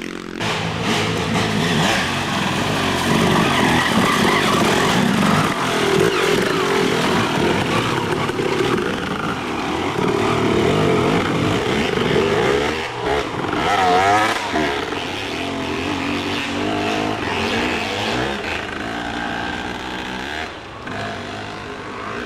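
Dirt bike engines racing past, revving up and down as the riders work the throttle, with a quick rev up and back about two thirds of the way through.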